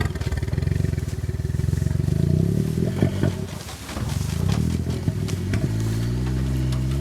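Suzuki Jimny JA11's small three-cylinder engine running under load, its revs rising and falling unevenly, with a sharp knock about three seconds in, then holding a steady rev near the end.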